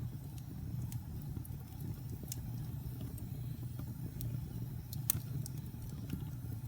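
Wood fire burning in a fireplace: a steady low rumble of flames with sparse sharp crackles and pops, the loudest pop about five seconds in.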